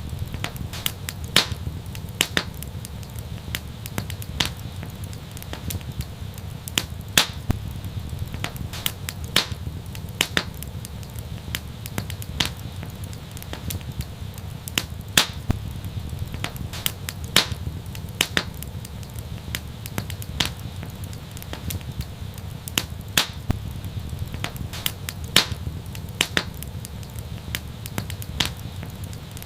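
Wood fire burning with a steady low rumble and irregular sharp crackles and pops, a few each second.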